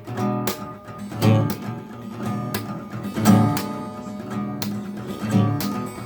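Acoustic guitar strummed in a steady rhythm, each stroke's chord ringing on: the instrumental intro of a song.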